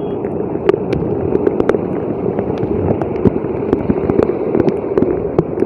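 Street traffic on a flooded road: a steady noisy hum of vehicles, with many short, scattered clicks through it.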